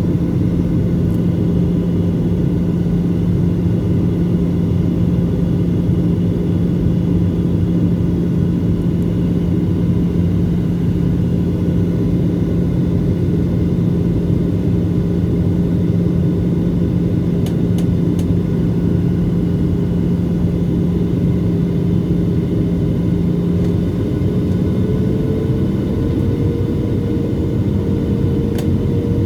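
Boeing 737-700's CFM56 jet engines and airflow in flight: a steady, loud drone with a low hum. About 25 seconds in, the engine hum steps up slightly in pitch.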